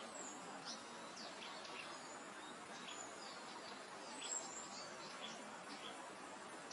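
Songbirds chirping in short, scattered calls over a soft, steady wind hiss, with a few thin high whistles and a slightly louder call about four seconds in.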